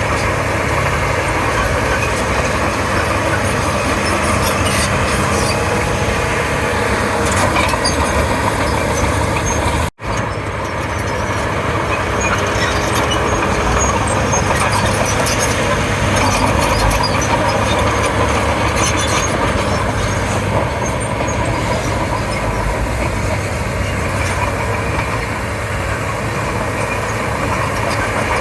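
Komatsu D31P bulldozer's diesel engine running steadily while it works, with a continuous drone. The sound drops out for an instant about ten seconds in.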